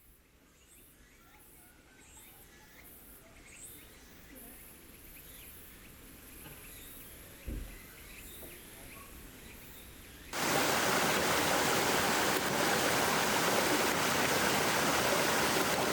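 Faint ticks and a low thump about halfway through, then, about ten seconds in, a loud steady sizzle starts abruptly: wagyu steak frying on a hot iron griddle over a campfire.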